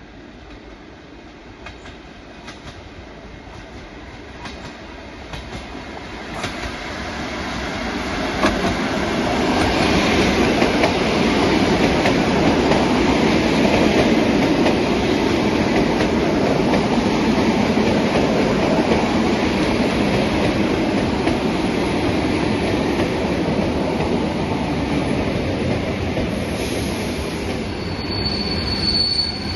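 ET2M electric multiple-unit train approaching and pulling in, its wheels clicking over rail joints and its rumble growing steadily louder over the first ten seconds, then holding loud as the cars roll past. Near the end a steady high-pitched wheel and brake squeal sets in as it slows to stop.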